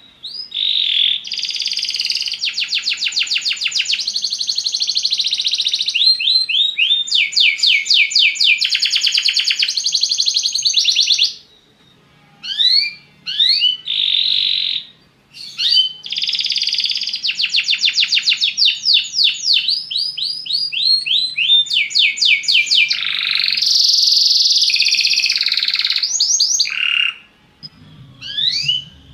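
Belgian canary singing: long phrases of rapid trills and repeated notes, with short breaks between phrases.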